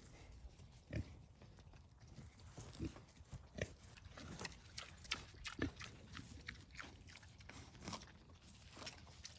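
Two piglets grunting and chewing as they eat, a string of irregular short grunts and smacking, crunching bites.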